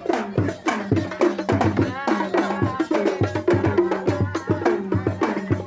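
Sholawat, Islamic devotional song, sung by voices over a steady, driving beat of drums.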